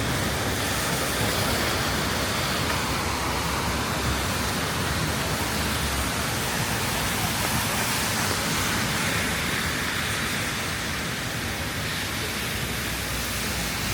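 Steady rain falling, an even hiss with the low rumble of a wet street beneath it.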